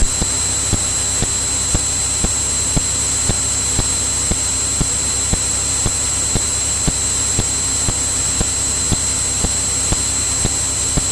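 Steady engine and cabin noise of a Cirrus single-engine piston aircraft in cruise, heard through the intercom, with a thin high whine and light clicks about twice a second.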